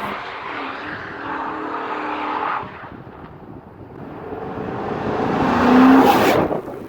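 Car engines and tyres going by in two passes. The first fades out a bit past two seconds; the second builds to its loudest about six seconds in and then cuts off abruptly.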